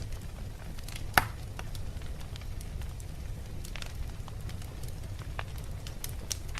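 Wood fire burning in a fireplace: a steady low rumble of flames with scattered crackles and pops from the logs, one sharp pop about a second in.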